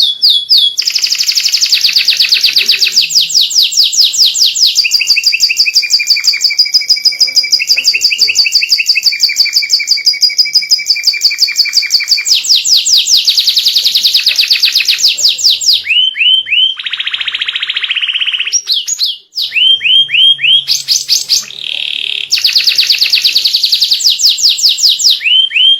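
White canary singing a long, loud song of fast trills of rapidly repeated notes, switching to a new phrase every few seconds, with one brief break about two-thirds of the way through.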